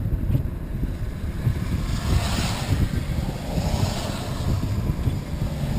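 Wind buffeting the microphone in a steady low rumble, with a rush of noise that swells about two seconds in and fades again.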